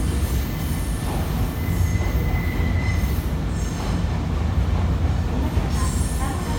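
Nankai Railway electric train moving through the station: a steady low rumble of wheels on rail, with a thin high wheel squeal at the start that returns near the end.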